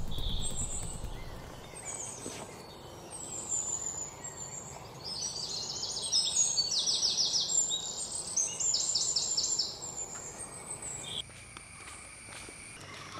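Birds singing and calling: high chirps, then loud rapid trills of quickly repeated notes from about five to ten seconds in, after which the birdsong drops away.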